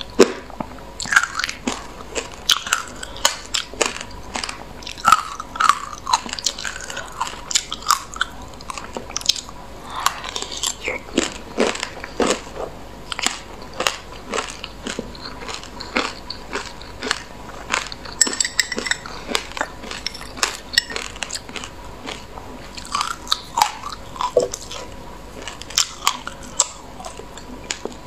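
A person chewing a mouthful of white sesame seeds mixed with passionfruit pulp and seeds: rapid, irregular crunching clicks, several a second.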